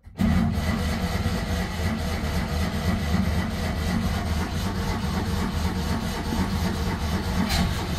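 Cold start of a 1982 Citroën 2CV's 2-cylinder flat-twin engine on choke, after eight months unused. The engine sound comes in abruptly and keeps going steadily as it tries to catch.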